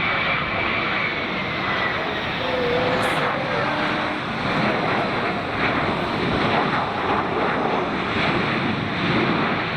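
Airliner's engines running loud and steady as it passes, with a high whine that slowly falls in pitch in the first couple of seconds.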